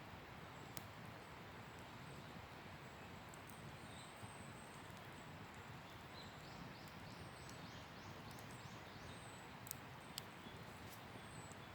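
Wood campfire burning faintly, a steady hiss broken by a few sharp pops and crackles, two close together near the end. Faint high chirps sound in the background, with a quick run of about ten repeated chirps midway through.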